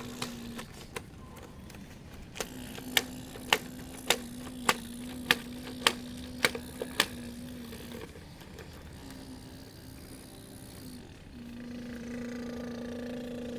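Radio-controlled model excavator's electric drive whining steadily, stopping and starting again as the controls are worked. It is joined from about two seconds in by a run of about ten sharp clicks, a little under two a second, and near the end by a second, higher whine.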